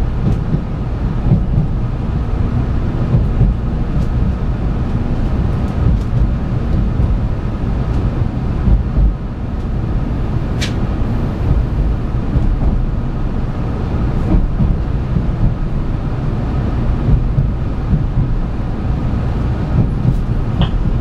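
Interior running noise of a 700 series 7000 'Rail Star' Shinkansen trainset heard from inside the passenger car: a steady low rumble of the wheels on the rails, with a few faint clicks.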